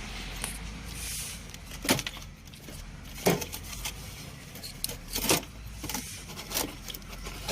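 Several sharp, irregular clicks, about four loud ones a second or two apart, as the worn, loose ignition switch of a small excavator is wiggled. The clicking comes and goes with the switch's movement: intermittent contact, which the mechanic takes for a faulty ignition switch rather than the starter.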